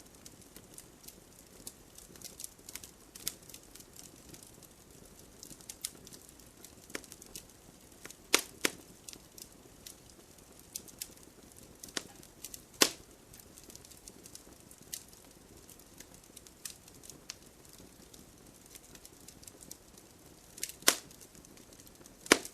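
Wood campfire burning, with a soft hiss and constant irregular crackling. A handful of louder sharp pops and snaps stand out, two close together a little over a third of the way in and one just before the end.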